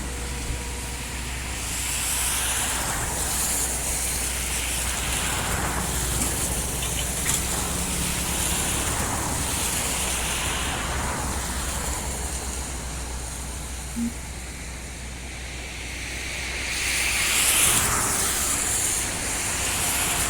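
Rain falling heavily: a steady hiss that swells louder near the end, over a low rumble.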